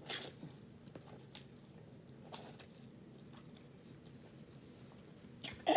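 A person chewing food close to the microphone, with a few sharp, wet mouth clicks now and then. Near the end comes a louder sound from the mouth or throat.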